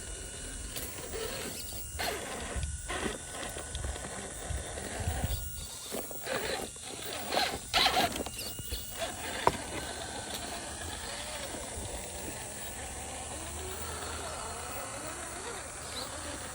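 Radio-controlled scale crawler truck driving in stop-start bursts, its small electric motor and geared drivetrain whining under scraping and crunching, loudest about eight seconds in, with a sharp click shortly after.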